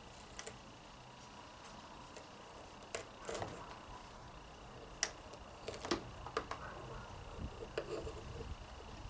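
Scattered clicks and light knocks of a vacuum cleaner's plastic parts being handled by hand, sharpest about five and six seconds in.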